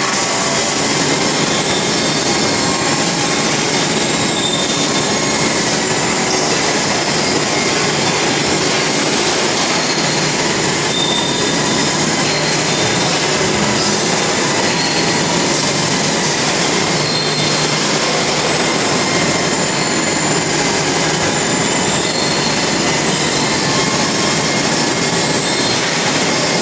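Steady, loud industrial machinery noise with a constant hiss and brief high squealing tones scattered through it.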